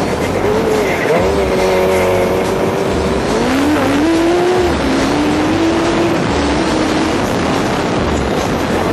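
Go-kart powered by a Suzuki GSX-R 1100 inline-four motorcycle engine running hard. The engine note rises and falls with the throttle, and drops sharply a little over three seconds in before climbing again.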